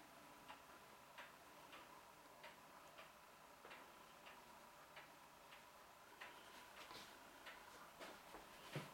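Faint, regular ticking, about three ticks every two seconds, over a faint steady high hum.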